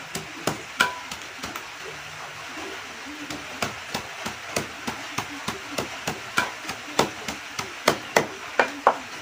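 A wooden pestle pounding fresh turmeric mash in a bowl: repeated knocks, irregular at first, then about three steady strokes a second from about three and a half seconds in.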